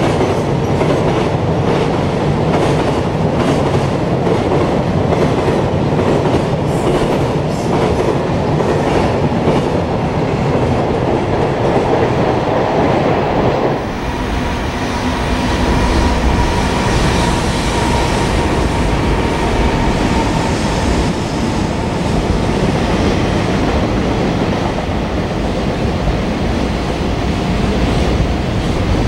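Freight train of container wagons passing at speed, its wheels clattering over the rail joints. About halfway through, the sound cuts abruptly to a second passing container freight train, with a faint steady whine.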